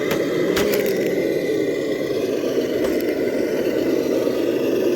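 Traxxas TRX6 six-wheel RC crawler driving over a backyard crawler course: a steady drivetrain hum, with a few sharp cracks and clicks from the tyres on rocks and debris near the start, just under a second in, and again about three seconds in.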